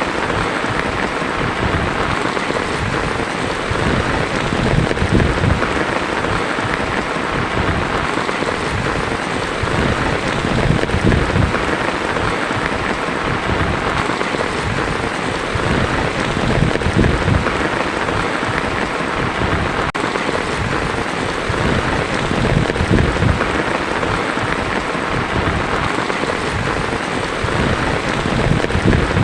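Heavy rain falling steadily on a tin roof, a dense, even patter with small swells in loudness.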